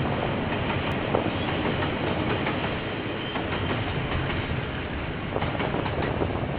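KiwiRail train passing, its wagons rolling steadily with occasional clacks from the wheels over rail joints, heard through a security camera's microphone.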